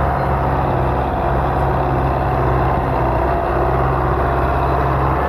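Tractor diesel engine running steadily at a constant speed, a low, even drone with no change in pitch.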